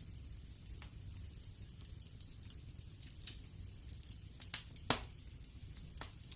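Wood fire crackling in a fireplace: a low steady rumble of the flames with scattered sharp pops, two louder ones close together about two-thirds of the way through.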